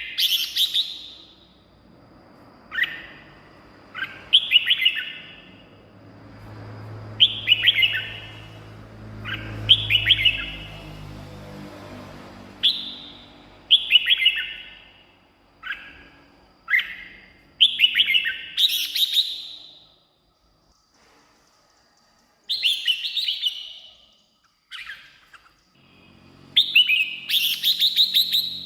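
Red-whiskered bulbul singing, a run of short, bright, warbling phrases, one every second or two, with a pause of a couple of seconds about two-thirds of the way through.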